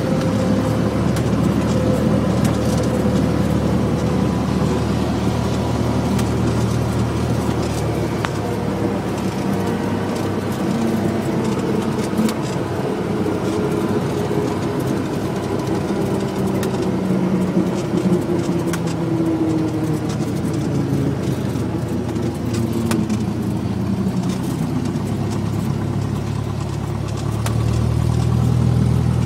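Cessna 172's piston engine and propeller droning steadily, heard from inside the cabin. One tone in it slowly falls in pitch over about twenty seconds. The drone grows louder and deeper near the end.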